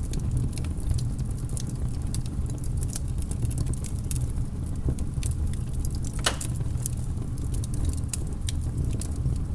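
Wood fire crackling in a fireplace: irregular small crackles and pops over a steady low rumble of the flames, with one louder pop about six seconds in.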